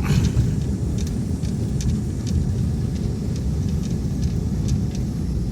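Steady low rumble of a vehicle travelling along a road, engine and road noise together, with faint light ticks now and then.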